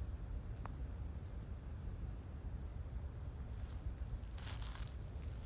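Steady high-pitched chirring of a cricket chorus, with a low rumble underneath and a few faint clicks near the end.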